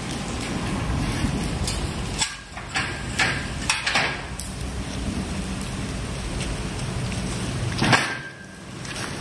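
Steady rain falling, with the low, steady running of a departing diesel locomotive underneath. Scattered sharp knocks cut through it, the loudest near the end.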